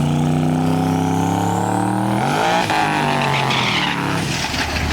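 A drag-racing car's engine running hard down the track, climbing steeply in pitch about two seconds in and then dropping as it goes by, with a high rising whine over it before that.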